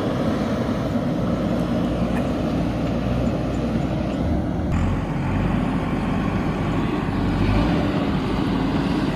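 JCB backhoe loader's diesel engine running steadily with a low rumble. The sound changes abruptly about five seconds in, but the engine keeps running.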